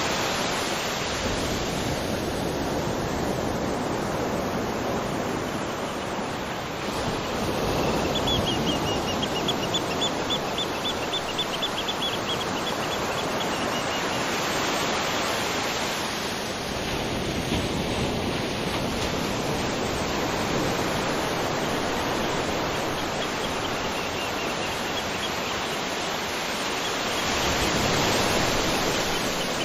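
Waterfall rushing: a steady, dense wash of falling water that swells and eases slowly. Near the middle a rapid high trill runs for about six seconds above the water.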